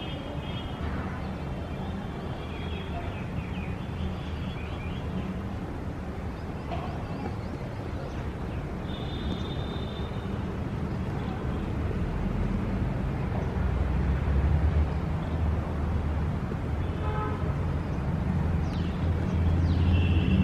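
City street traffic with a steady low rumble of passing vehicles that grows louder toward the end, and short car horn toots now and then, one about halfway through and another near the end.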